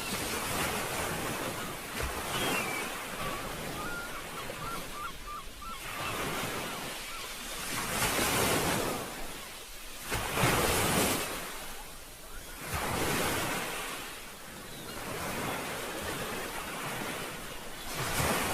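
Sea waves breaking on a beach, the wash swelling and falling every few seconds, with wind buffeting the microphone. A few faint high chirps come about five seconds in.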